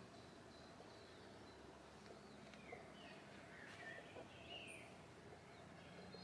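Near silence: faint outdoor ambience with a few soft bird chirps around the middle.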